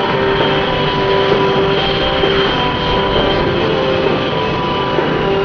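Blue Angels F/A-18 Hornet jet engines running at idle on the ramp: a steady rushing noise with high, steady whining tones.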